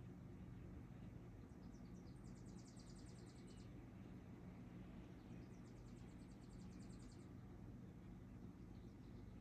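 Faint songbird song: two fast trills of rapidly repeated high notes, each lasting about one and a half to two seconds, with a few scattered chirps, over a steady low hum.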